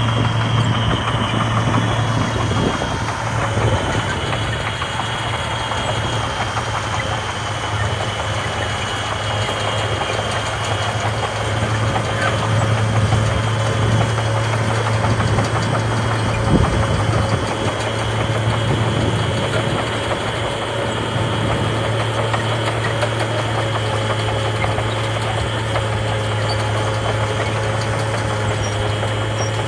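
Heavy diesel engine of earthmoving machinery running steadily with a deep drone, with a brief knock about halfway through.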